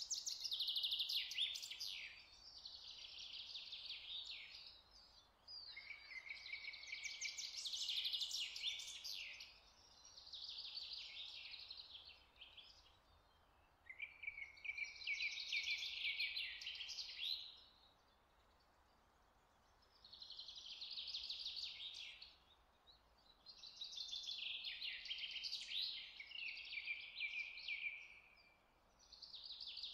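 Songbird singing: repeated phrases of fast, high chirping trills, each one to three seconds long, with short pauses between.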